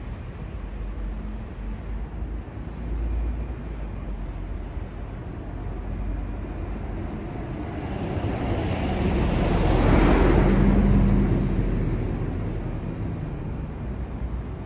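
Steady low city traffic rumble, with a vehicle passing close by: its noise swells to a peak about ten seconds in and then fades away.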